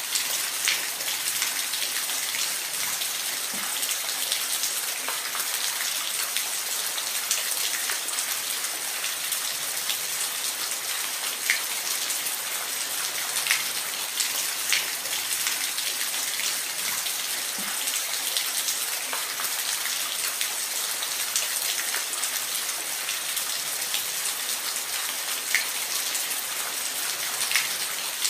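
Steady rain falling, a constant hiss with scattered sharper drops striking a surface.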